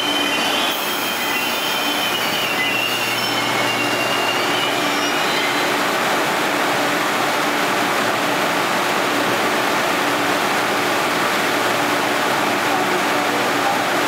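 Passenger train moving along the station platform. Its wheels squeal with several thin high tones for the first four or five seconds, then give way to a steady, loud running noise of the train on the rails.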